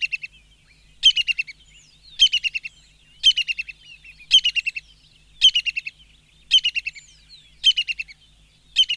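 Brown-hooded kingfisher calling: a quick run of piping notes that step down in pitch and fade, repeated about once a second.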